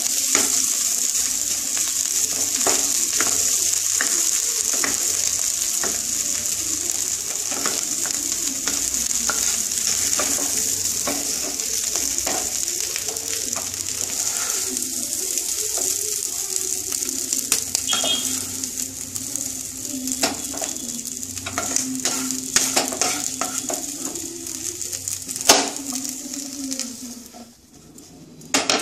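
Mashed potato and vegetable filling sizzling in a non-stick pan while a wooden spatula stirs and scrapes it, with a few sharp knocks. Near the end the sizzling dies away as the pan is taken off the heat.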